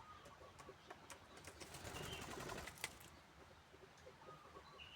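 Faint sounds of caged spotted doves: a few soft short calls and scattered light clicks, a little louder about two seconds in.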